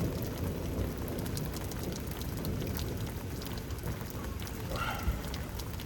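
Steady rain falling, with many scattered drop ticks over a low rumbling background.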